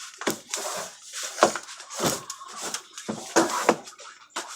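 A sheet of paper rustling and crackling in short bursts as it is handled and creased into folds.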